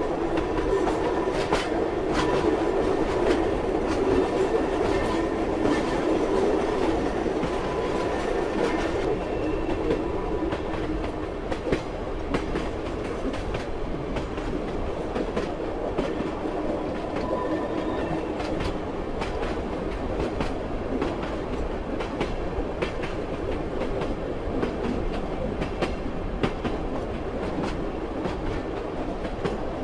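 A passenger train running on rails: the steady rumble of the carriage with the wheels clacking over rail joints, and faint squeals from the wheels now and then. The hiss thins out a little about nine seconds in.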